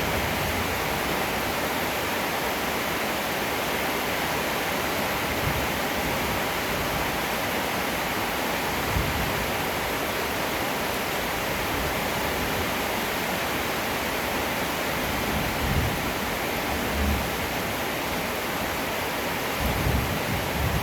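Heavy rain falling in a steady hiss, with a few short, soft rumbles of distant thunder and a low rumble building near the end.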